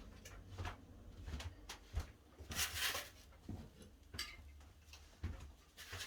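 Light knocks, bumps and rustling as someone moves about and picks up a small wooden breadboard, with a louder rustling hiss about two and a half seconds in.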